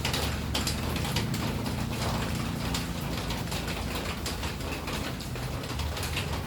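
Rain falling, with many irregular drips and ticks, over a low steady hum.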